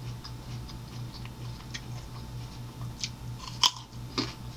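Baby carrots being chewed: a run of small crunches, with a sharper, louder crunch about three and a half seconds in as another carrot is bitten. A steady low hum runs underneath.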